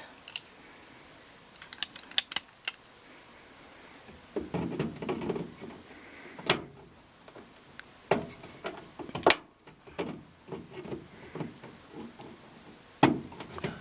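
Hands working hoses and spring clamps off a front-load washing machine's drain pump: scattered clicks and clatter of plastic and metal parts, with a few sharper snaps.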